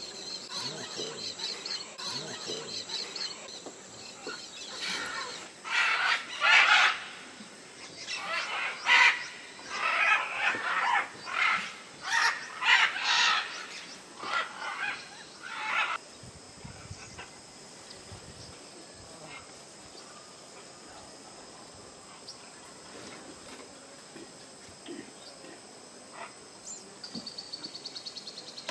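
Loud, harsh bird calls in a run of bursts lasting about ten seconds, over a steady high insect drone. Near the end comes a fast trill of pulses that falls in pitch.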